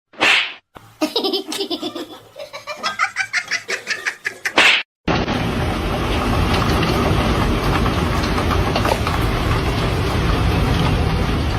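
A person laughing in quick repeated bursts. After an abrupt cut about five seconds in, a steady loud rushing noise takes over.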